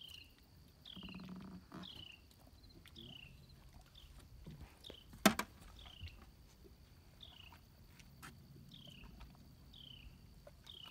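A bird calling over and over in short, falling high chirps a little under a second apart, with one sharp knock about halfway through.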